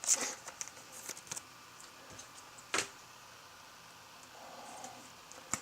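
Trading cards and their packaging being handled: soft rustles and light clicks, with one sharper click a little before the middle.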